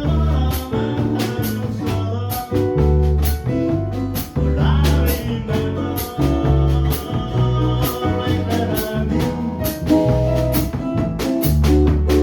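Small jazz band playing, with a bass line and regular cymbal strokes keeping time under a pitched melody.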